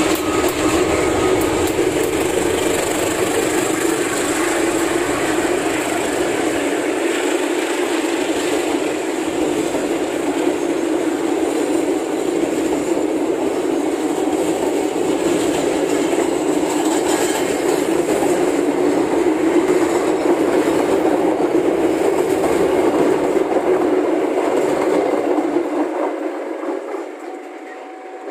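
A train of passenger coaches rolling past on the track, a loud steady rumble of wheels on rail that fades away near the end as the train moves off.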